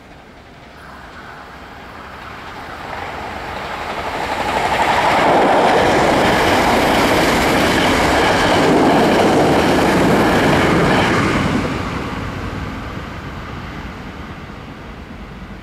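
Hankyu 1300-series electric train passing through a station at speed without stopping: its running noise builds as it approaches, stays loud for about six seconds as the cars go by, then fades away.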